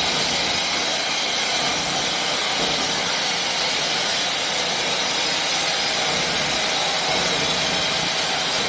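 Steady, even machine noise from construction equipment: a loud hiss with several high, steady whining tones and no change in pace.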